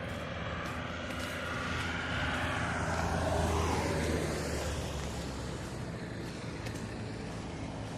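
A vehicle passing by: its noise swells to a peak about three and a half seconds in, dropping in pitch as it goes past, then fades.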